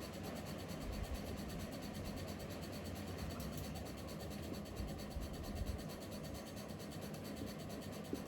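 Quiet room tone: a steady low hum and hiss, with a few soft low bumps about a second in and again around five seconds in.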